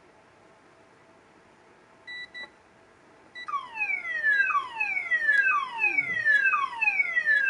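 Electronic siren of a lightning warning system sounding its alert: a falling wail repeated about once a second, starting about three and a half seconds in. Two short beeps come shortly before it.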